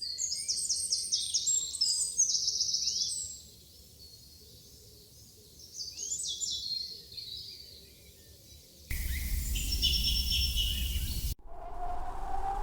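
Wild birds singing: fast, high, repeated trills and chirps in bursts. Around nine seconds in, a louder stretch with a steady rush of noise under the birdsong starts, then cuts off abruptly about two seconds later and gives way to a steady droning tone.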